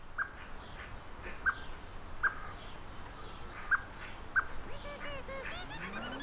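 Wild birds calling: five short, sharp chirps stand out over fainter birdsong, with a run of quick looping notes near the end.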